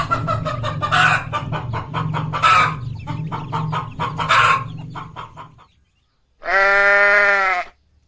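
Chickens clucking in a busy run of short calls over a low steady drone. After a short pause there is a single long bleat from a farm animal.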